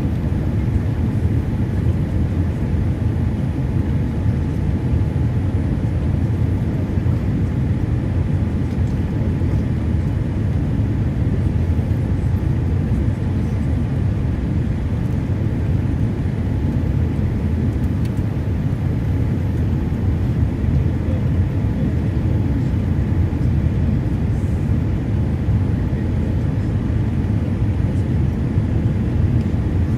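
Steady low rumble of engine and airflow noise heard inside a jet airliner's cabin in flight, with a faint steady tone above it.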